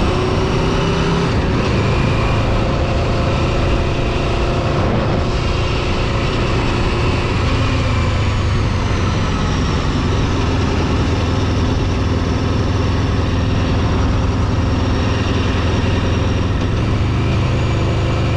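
Steady driving noise from a road vehicle under way: engine and tyre rumble, strongest in the low end, holding even throughout.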